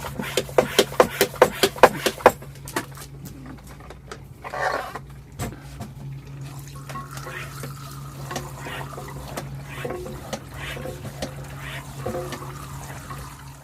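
Water running and splashing during clean-up of a freezer's evaporator coil after de-icing, opening with a quick run of sharp knocks, about four a second, over a steady low hum.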